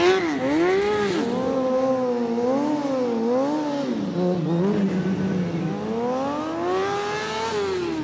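Motorcycle engine being revved: the pitch rises and falls in several quick blips, then climbs slowly for a couple of seconds near the end before dropping back.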